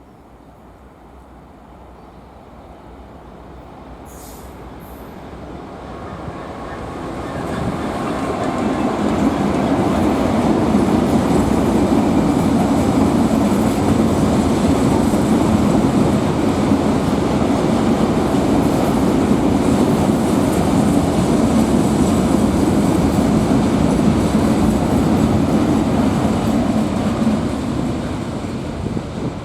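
A train approaching on the line and passing close by. Its rumble of wheels on rail grows steadily louder over about ten seconds, holds steady for well over a quarter of a minute as the long train goes by, and fades a little near the end.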